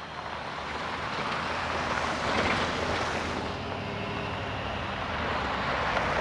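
4x4 truck driving on a dirt desert trail: steady engine hum under a rushing of tyre and wind noise that builds over the first couple of seconds.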